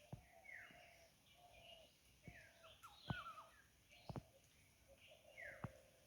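Birds calling faintly: short falling chirps and a lower note repeated roughly once a second. Several sharp clicks cut through, the loudest sounds.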